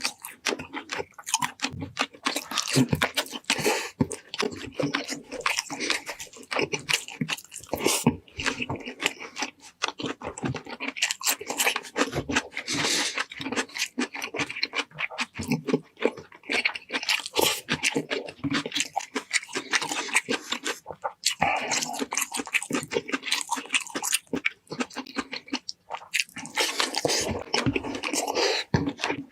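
Close-up chewing, biting and crunching of roast chicken and pork shank: a dense, continuous run of crunches and mouth sounds.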